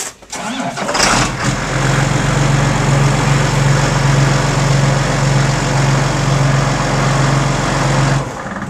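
Large John Deere tractor's diesel engine starting about a second in, then idling steadily with a low, even note. It stops abruptly near the end.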